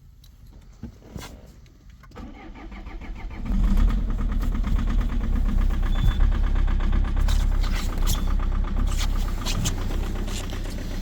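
2.0 HDi four-cylinder common-rail diesel cranking about two seconds in and catching about a second later on a cold start at −8°C. It then idles with a very strong, rapid knocking.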